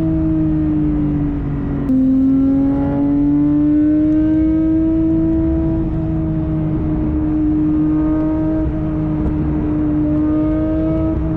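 Straight-piped BMW engine and exhaust droning under way, its pitch drifting slowly up and down. About two seconds in there is a sudden step, with the note getting louder, then a slow climb in pitch as the car pulls.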